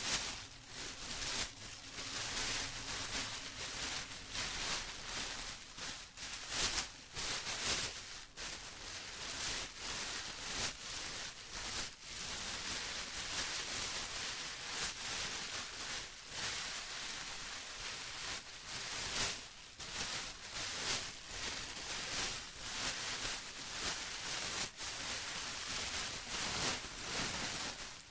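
Plastic being rustled and crinkled by hand, a continuous irregular crackling with frequent brighter crinkles.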